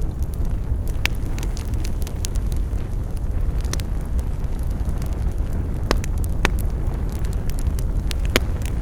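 Campfire burning with a steady low roar of flames and frequent sharp crackles and pops from the burning wood.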